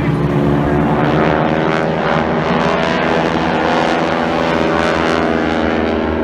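Aircraft flying past in an aerobatic display, a loud, steady engine drone with several even tones.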